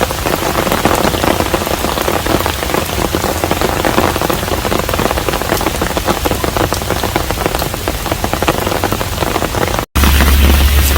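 Steady heavy rain falling on a hanok, a dense patter of many drops. Near the end it cuts out for an instant and comes back louder, with a steady low hum underneath.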